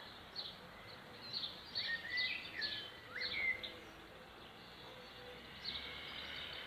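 A small bird chirping in a quick run of short, high calls, then once more near the end, over faint steady outdoor background noise.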